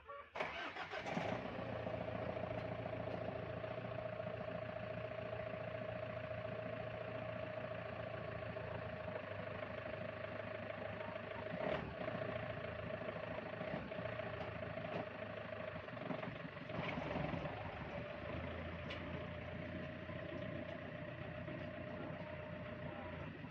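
Car engine starting about half a second in, then running steadily.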